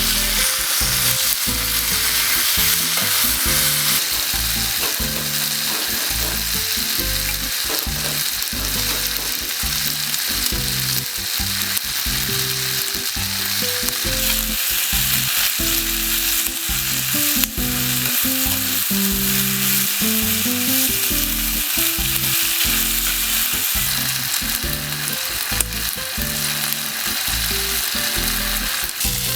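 Meat sizzling steadily in a hot wrought-iron Turk frying pan, with a continuous frying hiss. A slow, low melody plays underneath.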